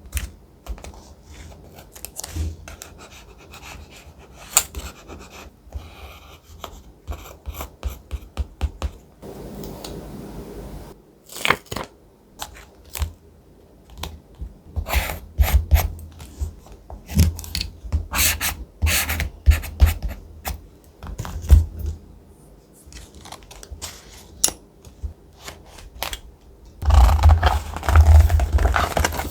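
Close-up sounds of thick paper being handled for a collage journal: many short, crisp snips and crackles, a steady rub of about two seconds a third of the way in, and a dense stretch of scraping and rubbing near the end.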